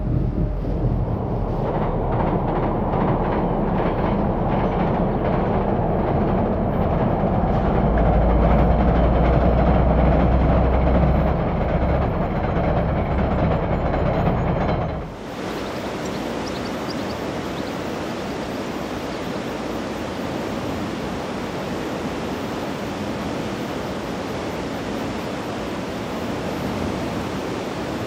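Train running across a steel railway viaduct: a low rumble with the clickety-clack of wheels on rail joints, swelling and then cutting off suddenly about halfway. After that comes a steady rushing noise, the river in flood.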